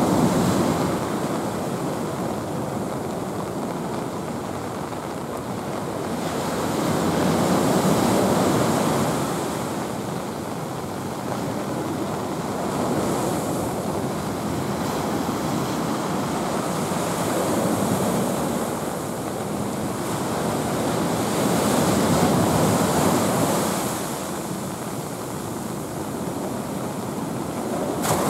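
Rough sea stirred up by an approaching typhoon: surf breaking in a continuous rush that swells and fades every several seconds.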